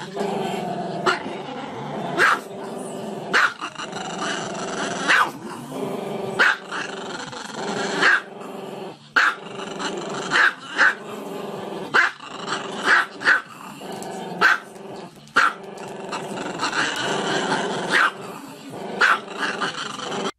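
A small dog with its muzzle raised howls in a long drawn-out, grumbling voice, broken by sharp barks every second or two.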